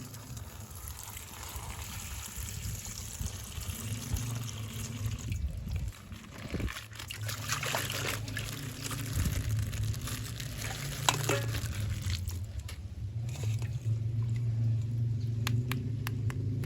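Coloured water pouring and trickling out of a punctured plastic bag, with scattered sharp clicks of the plastic being handled.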